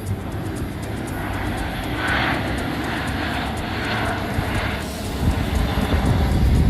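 Airbus A320 jet engines running: a steady rumbling roar that grows louder near the end.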